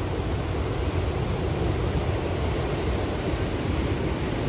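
Big ocean surf breaking and washing in, a steady rushing noise with wind on the microphone.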